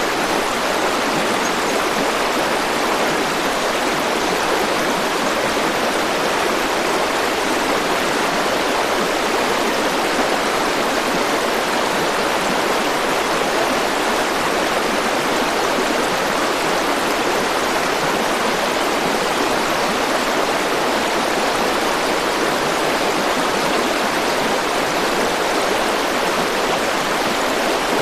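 River water flowing and rushing in a steady, even wash with no breaks.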